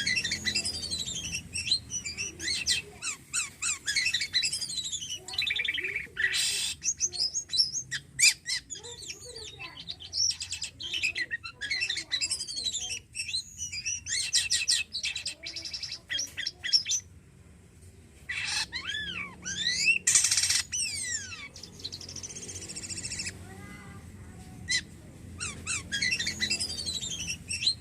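Black-winged myna (jalak kapas) singing in full voice: a fast, varied run of chirps, whistles and falling slurred notes, with a few brief pauses.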